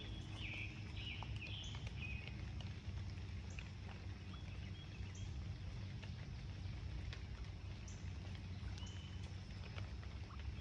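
Birds chirping in short, high notes, a cluster near the start and single notes scattered after, over a steady low rumble.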